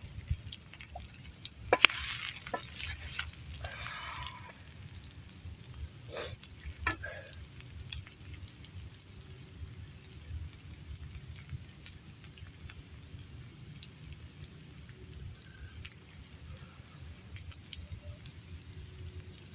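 Food frying over a campfire, with a low steady noise and a few sharp knocks and scrapes of utensils, the clearest about two and six seconds in.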